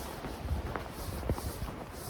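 Footsteps walking through snow: several uneven steps with low thuds.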